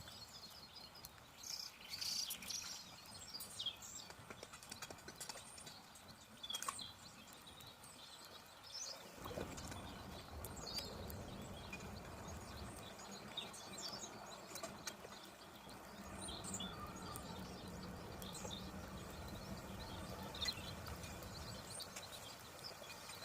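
Scattered clicks and knocks with birds chirping. About nine seconds in, a steady rush of water sets in as the cleared storm drain starts taking the puddle.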